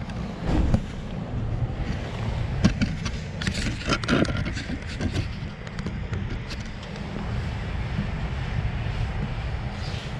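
Absorbent washcloth wiping down a wet car body in short rubbing strokes, over a steady low rumble.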